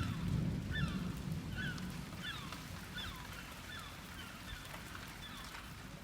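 A bird giving short, falling calls about every three-quarters of a second, over a low rumble of distant thunder that dies away over the first few seconds.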